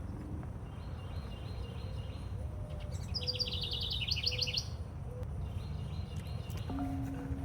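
A songbird sings one rapid trill of short high notes, lasting about a second and a half midway, with fainter high calls before and after, over a steady low rumble.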